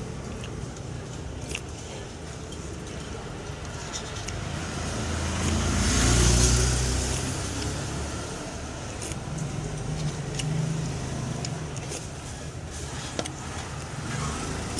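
A road vehicle passes by, its sound building to a peak about six seconds in and then fading, over steady traffic noise; a few faint clicks.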